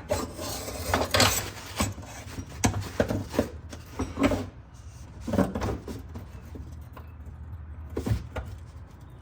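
Irregular knocks, clicks and scraping as hand tools and metal car parts are handled during repair work, over a steady low hum.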